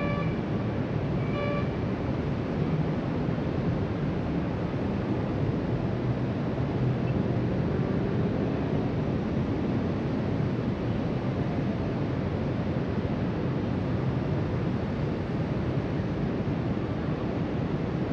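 Steady rush of ocean waves breaking along the beach below, mixed with wind buffeting the microphone. Two short high beeps sound near the start.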